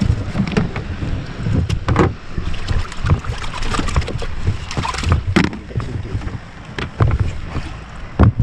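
Mini boat on choppy sea: water slapping and knocking against the hull at irregular intervals, with wind on the microphone. Sharp knocks about two seconds in, about five seconds in, and near the end.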